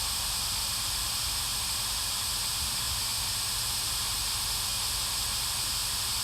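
Steady, unbroken static hiss like white noise, with no change in level.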